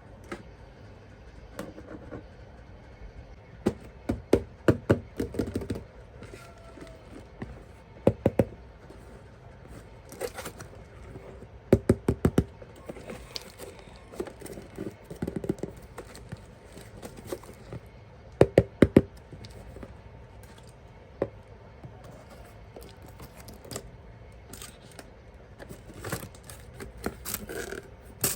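Toy boxes and packaging being handled: quick knocks and taps in small clusters every few seconds, with some light scraping between them.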